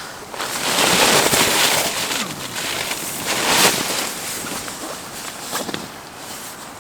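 Tarp shelter flapping and crackling in strong gusts of wind, loudest in the first four seconds and then dying down.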